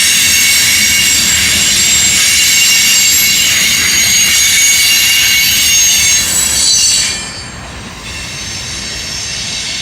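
Norfolk Southern train passing close, its wheels squealing on the rails with many high, steady tones over loud rail noise. About seven seconds in the level drops sharply and the squeal fades.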